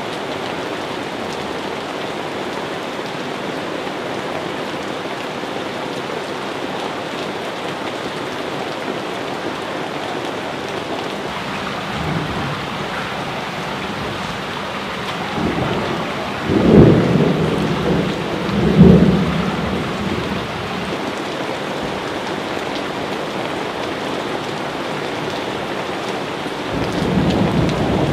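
Steady rain falling, with rolls of thunder over it: a faint rumble partway through, two loud rumbles close together near the middle, and another starting near the end.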